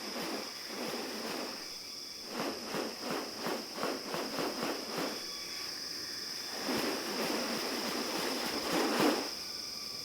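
Rainforest insects keeping up a steady high-pitched drone. Over it come bursts of noise: a run of quick pulses, about three a second, from about two to five seconds in, and a longer, louder burst near the end.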